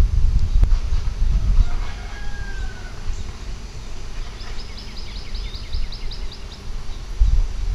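Birds calling: a short call about two seconds in, then a fast trill of high repeated notes in the middle, over a low rumble that is strongest at the start and end.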